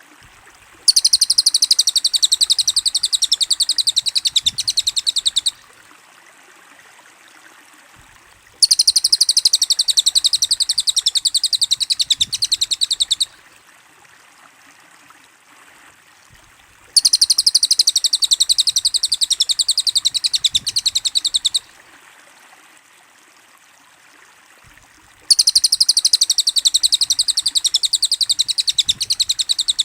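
Sped-up cililin birdsong: a very fast, high-pitched trill that comes in four loud bursts of about four and a half seconds each, repeating about every eight seconds. A faint steady hiss like running water fills the gaps between bursts.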